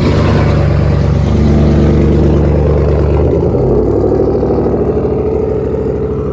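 LS V8 engine of a two-door Chevy Tahoe through dual straight pipes, running loud just after starting, at a raised idle that drops to a lower steady idle about three and a half seconds in.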